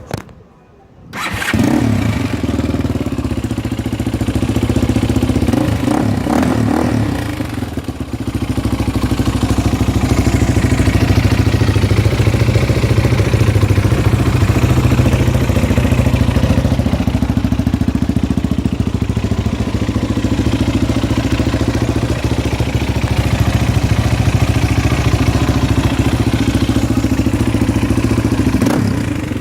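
Honda XR250 Tornado's single-cylinder four-stroke engine starting about a second in, then running. Its pitch rises and falls a few times over the first several seconds before it settles into a steady run.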